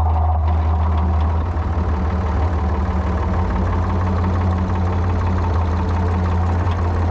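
Ford 3000 tractor's three-cylinder engine running steadily.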